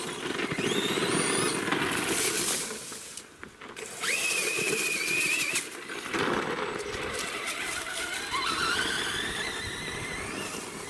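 Electric motor and drivetrain of an RC monster truck whining under throttle, rising in pitch as it speeds up, in three bursts with short breaks about three and a half and six seconds in.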